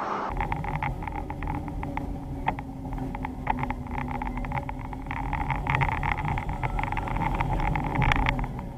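Vehicle engine running with a steady low drone, over many short rattles and clicks that grow busier and louder toward the end.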